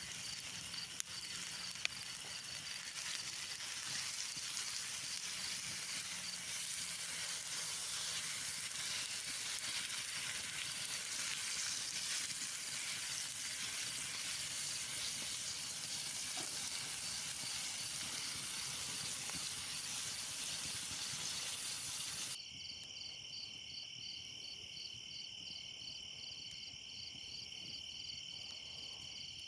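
Steak, peppers and onion frying over a campfire, sizzling steadily with a couple of small knocks early on. About two-thirds of the way in, the sizzle cuts off abruptly, leaving insects chirping in a steady rapid pulse.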